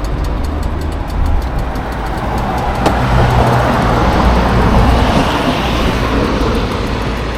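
Motorcycle engine running with a steady low rumble under a rushing noise, growing a little louder towards the middle.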